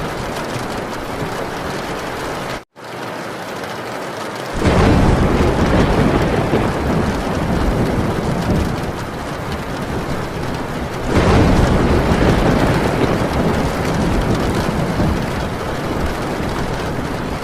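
Heavy rain drumming steadily on a tin roof, with two long, low rolls of thunder swelling up about four and a half seconds in and again about eleven seconds in. The sound drops out for a split second a little before the first roll.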